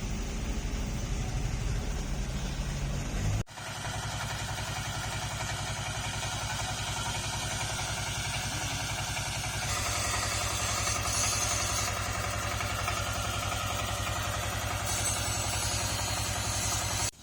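Truck engine running steadily at a low, even speed, with a brief break about three and a half seconds in.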